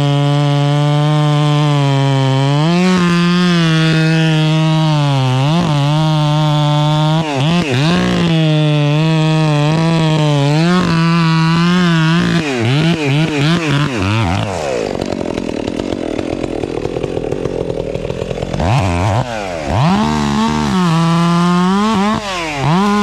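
Chainsaw running at full throttle while cutting wood, its engine note sagging and recovering under load. About 14 seconds in the engine drops off. Near the end it is blipped up and down a few times.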